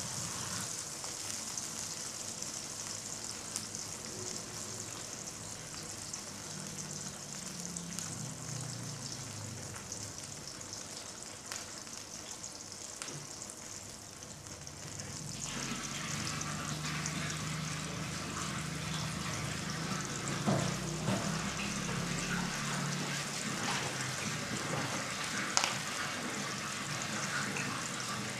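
Chilies, shallots and garlic frying in oil in a wok, a steady sizzle. About halfway through the sound grows fuller, with a few sharper pops in the second half.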